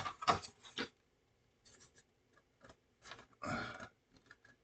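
Scattered short rubbing and scraping sounds from a plastic scale model kit being handled, with a longer scuff a little past halfway.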